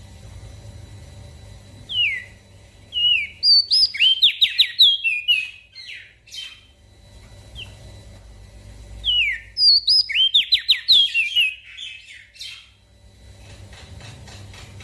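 A small songbird singing two phrases, about two seconds in and again about nine seconds in. Each phrase opens with a few short downward-slurred whistles and runs into a fast series of bright notes. A low steady hum lies underneath.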